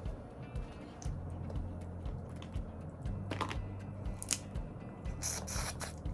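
Background music with a steady bass beat, over which hard blue crab shell cracks and crunches a few times, the loudest a little past the middle and near the end.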